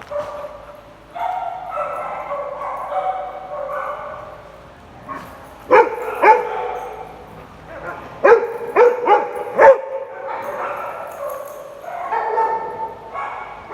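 Dog whining in long drawn-out whines, broken in the middle by a string of about six short sharp barks.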